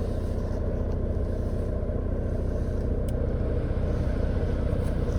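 Mercedes-Benz Vito 2.2 CDI four-cylinder turbodiesel idling steadily on a cold engine after a start at −10 °C, with a fast, even diesel clatter; a faint click about three seconds in.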